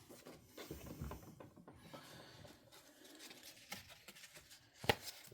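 Faint rustling and light clicks of paper instruction leaflets being handled and turned over, with one sharper tap near the end.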